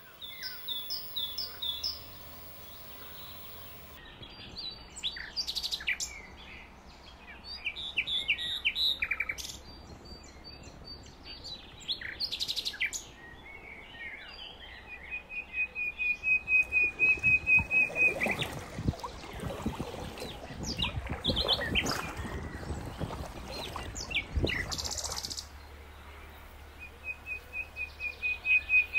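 Several songbirds singing, with a fast, even trill about halfway through and again near the end. Between the trills comes a run of rough, noisy sounds.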